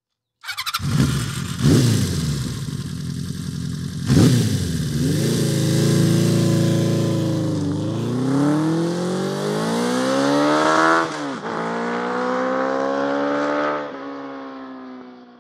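Honda CB400F air-cooled four-cylinder motorcycle engine through its 4-into-1 exhaust: revved twice, then pulling away and accelerating, pitch climbing with a drop at each upshift about eight and eleven seconds in, then fading out as the bike rides off.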